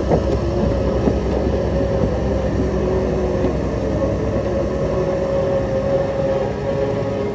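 Diesel engine of heavy earthmoving equipment running steadily, with a couple of sharp knocks at the very start.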